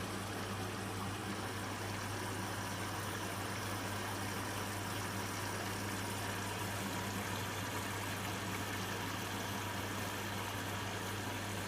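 Hotpoint washing machine running steadily in the last minutes of a cotton cycle: a constant low hum with water noise over it.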